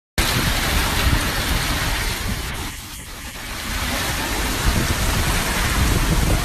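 Loud, steady rushing noise of a storm, starting suddenly just after the start and easing for about a second in the middle.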